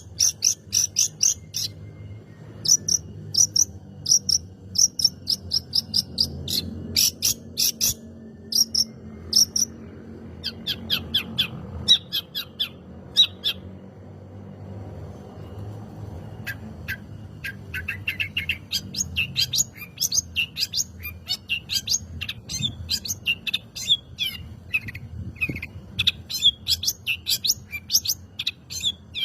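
Long-tailed shrike (cendet) singing a fast, chattering run of short, sharp notes, breaking off for about two seconds midway before picking up again even more busily.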